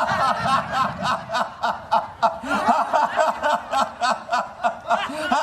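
Deliberate laughter-yoga laughter: a steady run of short, rhythmic "ha-ha" pulses, about four a second.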